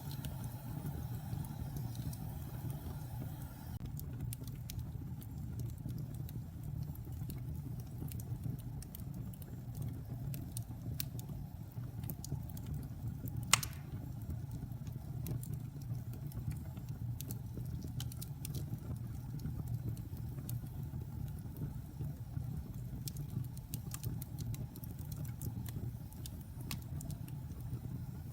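Wood fire burning in a fireplace: a steady low rumble with scattered crackles and one sharp pop about halfway through.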